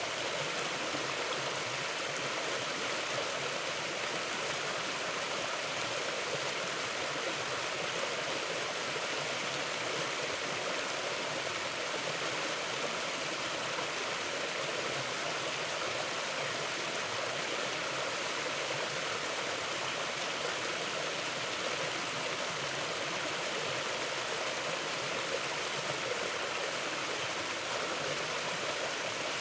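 Mountain river flowing, a steady, even rush of water with no pauses or changes in level.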